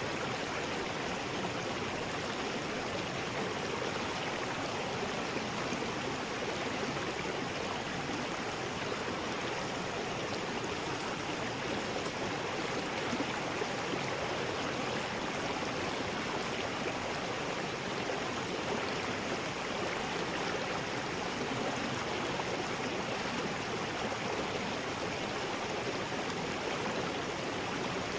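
River rapids: water rushing steadily over rocks, an even, unbroken rush with no changes.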